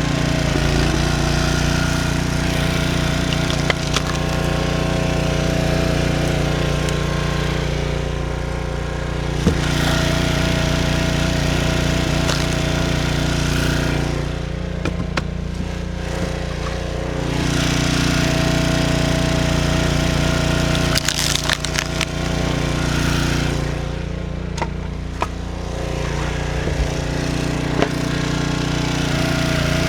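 Gas-engine log splitter running steadily, its sound dipping three times, with sharp cracks and snaps of wood splitting and splintering, a cluster of them about two-thirds of the way through.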